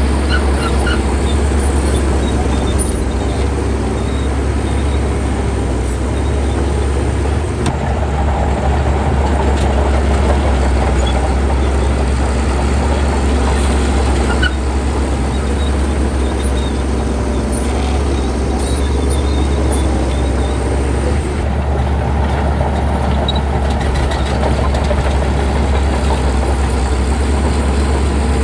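Diesel engine of a Shantui crawler bulldozer running steadily as it works, a continuous low drone.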